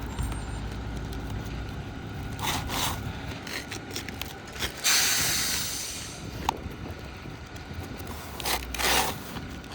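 Roof shingle being worked loose and pulled out from under the course above: several rough scraping and tearing sounds, the longest about five seconds in, and a single sharp click a little later.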